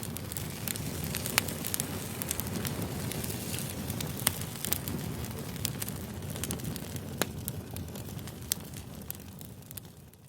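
Wood campfire crackling: a steady low rush with scattered sharp pops, fading out near the end.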